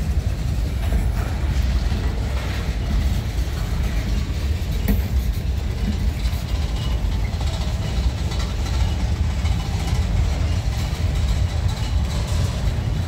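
Freight train cars rolling slowly past on the rails: a steady low rumble of wheels and trucks, with a single sharp click about five seconds in.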